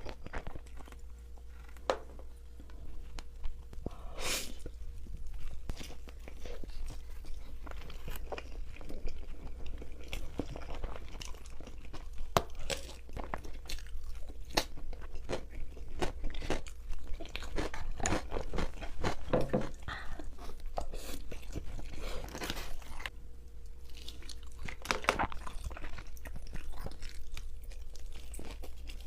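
Close-miked eating: bites into crunchy food followed by irregular crunching and chewing.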